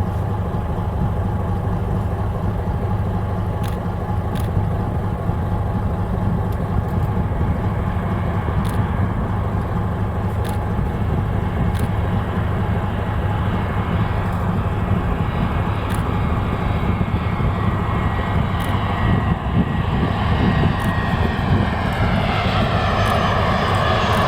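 Steady low hum of a fishing boat's engine idling. From about twenty seconds in, the jet engines of an airliner on final approach grow louder as it comes near.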